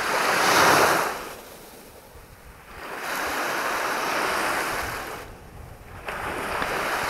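Sea waves breaking and washing up on the shore, three surges a few seconds apart, each swelling and fading away.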